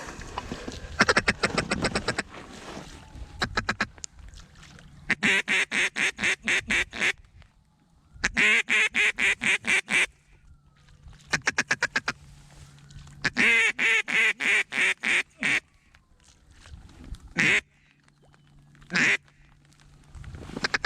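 Duck call blown in runs of rapid, evenly spaced quacks, four runs in all, followed near the end by two single drawn-out notes, calling to passing ducks.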